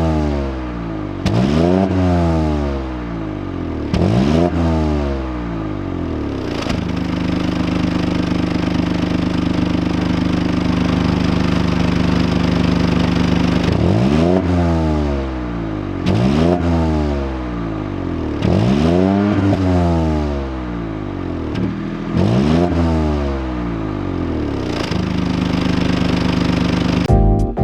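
BMW 118i's 1.5-litre three-cylinder turbo engine and exhaust being revved: quick throttle blips about every two seconds that rise and fall in pitch, with the revs held steady for several seconds in the middle and again near the end.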